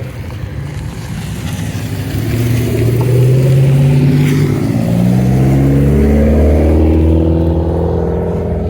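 A car engine accelerating, its pitch climbing for several seconds and loudest in the middle, then holding steadier near the end.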